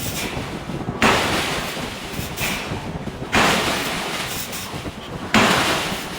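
Giant hydraulic forging hammer striking hot steel in a steady rhythm, three heavy blows about two seconds apart. Each blow starts suddenly and dies away over a second or two.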